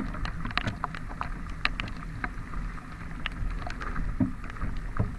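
Scooter riding through rain: a steady low rumble of engine and wind on the microphone, with many scattered sharp taps of raindrops hitting it.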